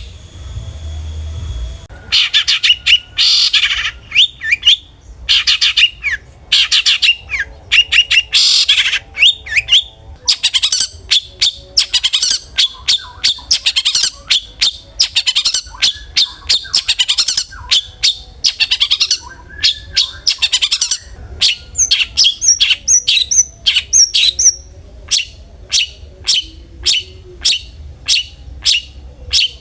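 Long-tailed shrike (cendet) calling, starting about two seconds in: fast runs of sharp, harsh chattering notes, then a short run of high whistled notes about two-thirds in, and evenly repeated single sharp notes near the end.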